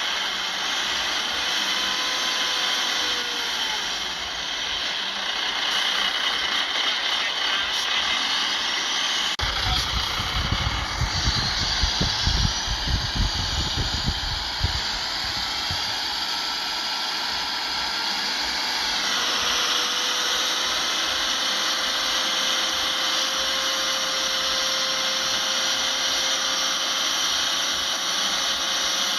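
Bulldozer running with a steady high-pitched mechanical whine over its engine. From about ten to fifteen seconds in, a heavy low rumble swells and then fades, and a little later the whine drops in pitch.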